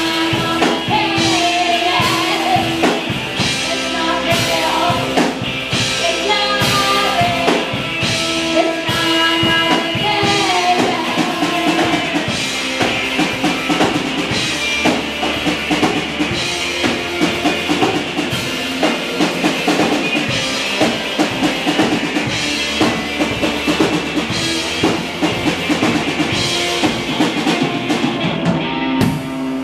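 Rock band playing live, with a drum kit keeping a busy, steady beat under sustained instrumental lines and no words sung.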